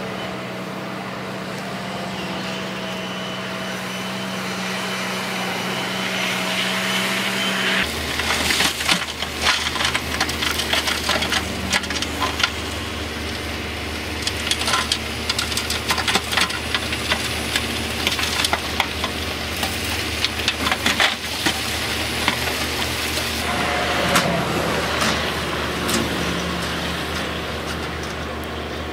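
Heavy earthmoving machine's diesel engine running steadily; its note drops about eight seconds in, and rock then cracks and clatters densely for about fourteen seconds as it is pushed or scooped.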